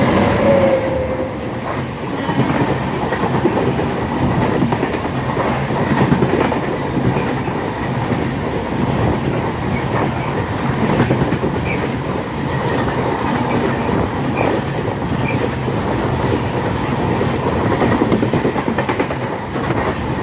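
Train running along the track, its wheels clattering over the rail joints under a steady rumble.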